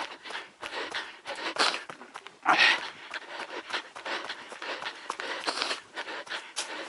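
A runner's hard panting breaths with running footsteps, one louder gasp about two and a half seconds in.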